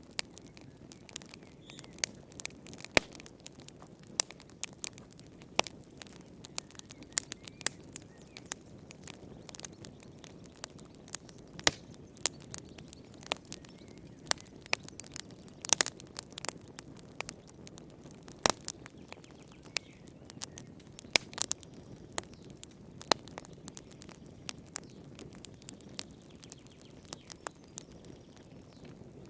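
Wood fire burning in a fireplace: irregular sharp crackles and pops, some much louder than others, over a low steady rush of the flames.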